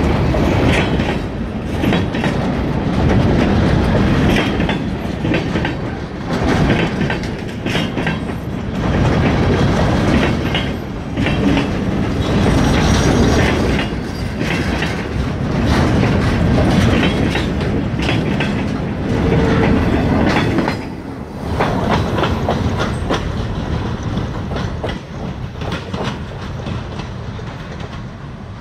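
Freight train cars rolling past close by, their wheels clicking over the rail joints in a steady clickety-clack with a heavy rumble that swells and dips. The sound grows fainter over the last several seconds.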